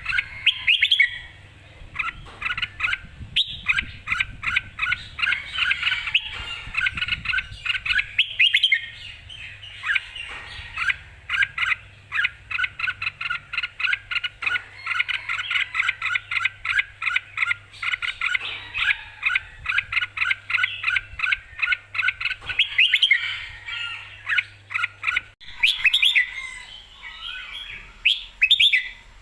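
Red-whiskered bulbul singing a full, lively song: fast runs of short, clear whistled and chirping notes, several a second, with brief pauses between phrases.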